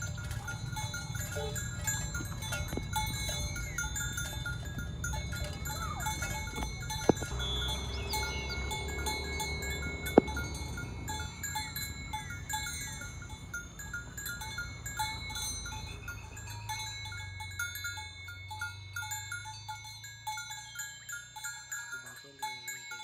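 Village cattle lowing and moving about, with a small bell clinking in a steady repeating pattern. Two sharp knocks come about seven and ten seconds in.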